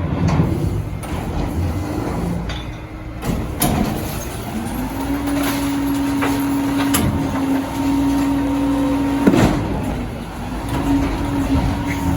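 Heil Dura-Pack rear-loader recycling truck running at the curb, with scattered clanks and knocks. A steady hum comes in about four and a half seconds in.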